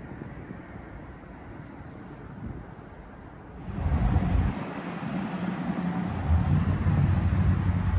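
Thunderstorm wind noise: a low steady rumble, then a sudden jump about four seconds in to louder gusts buffeting the microphone.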